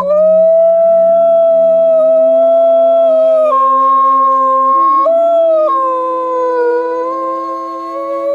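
Wolves howling: one long howl that swoops up at the start, holds, then shifts pitch a few times and dips, over a second, lower howl.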